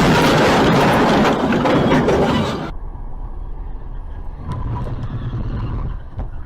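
Road-vehicle noise: a loud rushing noise that cuts off abruptly about two and a half seconds in, followed by quieter low engine and road rumble.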